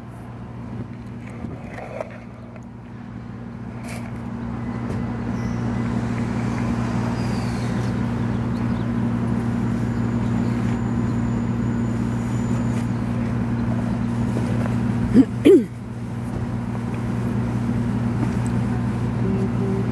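A motor vehicle's engine running steadily, a low hum that grows louder over the first few seconds and then holds. Two brief, sharp, loud sounds come about fifteen seconds in.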